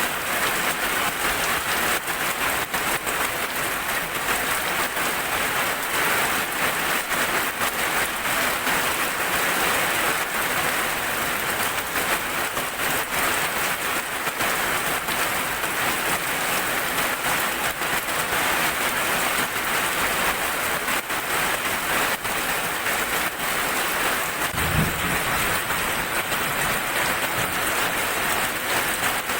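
Heavy rain falling steadily, a dense even wash of drops with fine pattering. A short low thud sounds about 25 seconds in.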